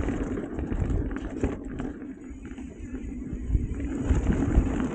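Mountain bike rolling down a muddy dirt trail: tyre noise and a low rumble with scattered knocks and rattles from the bike over bumps, plus wind rumble on the microphone.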